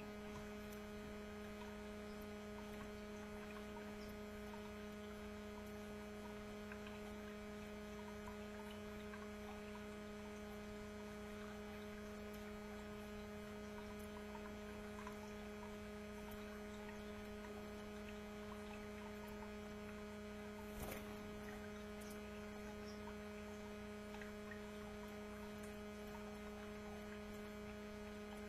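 Steady, faint electrical hum with a low tone and a few higher tones stacked above it. A single sharp click comes about 21 seconds in.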